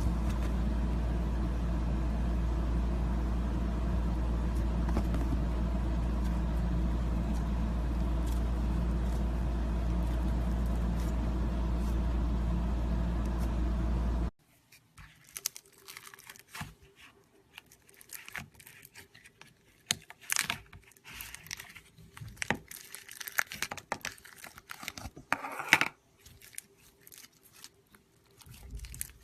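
A steady droning noise with a strong low hum for about the first half, cut off suddenly. Then slime being squeezed and poked, with scattered crackles and crunches.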